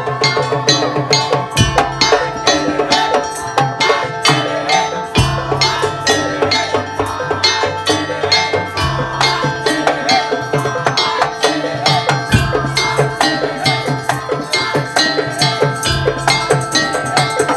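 Madurese tong-tong (kentongan) ensemble playing: fast, dense strikes on wooden slit drums and other percussion over a wavering melody and held pitched tones, with a deep drum note that changes every few seconds.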